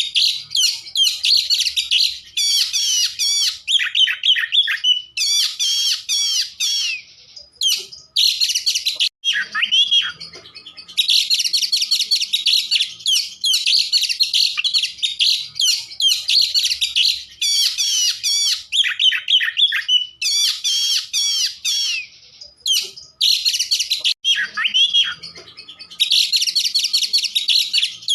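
Oriental magpie-robin (kacer) singing a long, varied song of rapid whistles, trills and chatter, in long bouts with a few brief pauses, around ten seconds in and again a little past twenty seconds.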